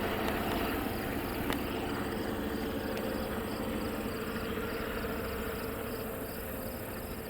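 Rumble of a passing train's diesel locomotives and cars slowly fading away, under insects chirping steadily at about two chirps a second.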